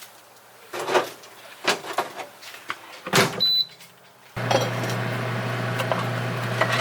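Microwave oven being loaded and started: a few knocks and clunks, a short high beep, then the oven starts running with a steady low hum about four seconds in.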